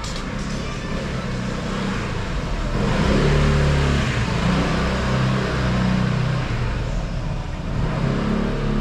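A motor vehicle's engine running close by, with a broad hiss over it. It grows louder over the first three seconds and then holds fairly steady.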